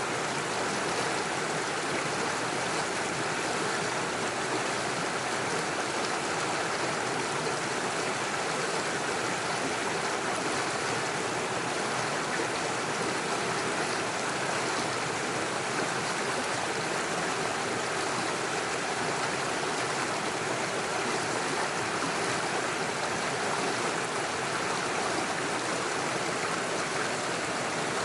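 Small mountain stream running over stones and little waterfalls: a steady rush of water with gurgling and trickling.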